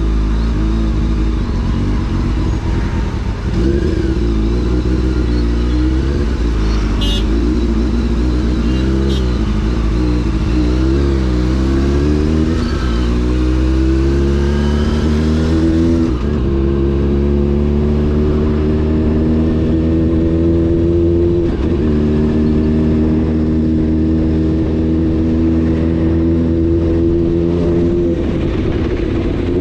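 Honda CBR600 F4's inline-four engine running while riding, its pitch rising and falling with throttle and gear changes through the first half. It then holds fairly steady, with a short drop a little past the middle, and climbs again near the end.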